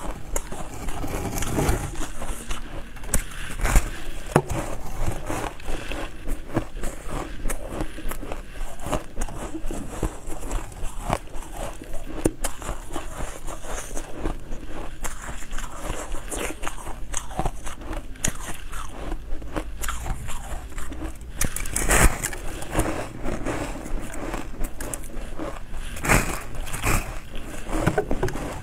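Close-miked biting and crunchy chewing of frozen, frost-coated food: a dense run of crackling crunches, with a couple of louder bites in the second half.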